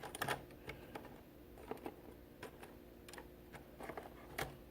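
Faint, scattered clicks and taps of colouring supplies being handled and set down while a colour is swapped, with one louder tap at the start and another near the end.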